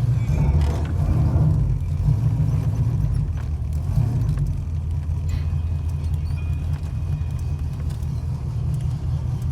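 Cammed 305 small-block Chevy V8 running with a steady low rumble. The engine now runs smoothly, its misfire cured by fixing a spark plug wire that was grounding out on the header.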